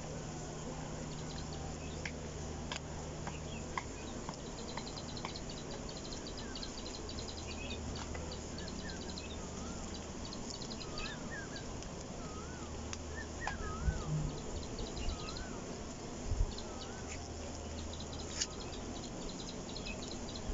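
Birds calling in the open: a rapid run of high, thin notes, then a string of short wavering whistles repeated about once a second. A steady low hum runs underneath, and there are a few soft thumps in the second half.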